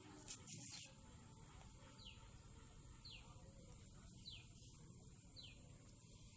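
A bird calling faintly, repeating a short high note that falls in pitch four times, about once a second, after a brief high burst of sound near the start.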